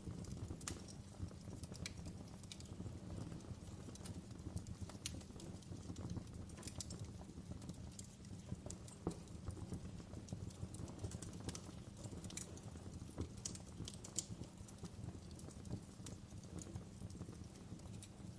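Wood fire in a fireplace crackling, with sharp pops at irregular intervals over a low, steady rumble of burning.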